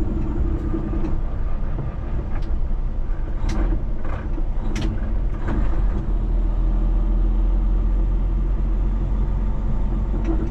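Heavy truck's diesel engine running with a steady low drone, with a few sharp clicks between about two and five seconds in.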